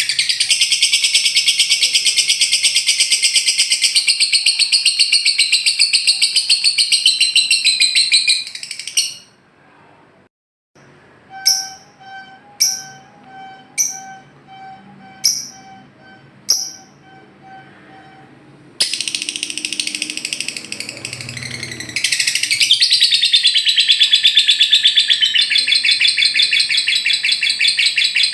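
Lovebird 'ngekek' song: a long, very rapid, high-pitched chattering trill. About nine seconds in it breaks off into a near-quiet pause with about six separate sharp chirps, then the fast chatter starts again near twenty seconds.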